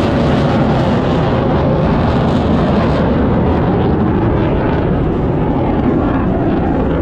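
Airshow aircraft flying over, a loud steady noise with no letup.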